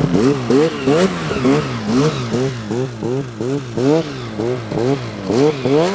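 Snowmobile engine revved up and down over and over, its pitch rising and falling about two and a half times a second, as the rider works to free a sled stuck in the bushes.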